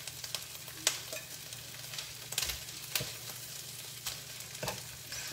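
Breaded steaks sizzling as they fry in butter in a skillet, with a few sharp clicks and scrapes of a utensil against the pan and plate.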